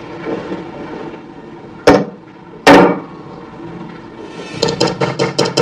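Two sharp knocks less than a second apart, then a quick run of clicks or taps near the end.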